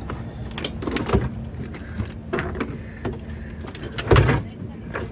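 Knocks and clunks from brake booster parts being handled and pressed back together, a few short ones in the first half and the loudest, heavier clunk about four seconds in, over a steady low hum.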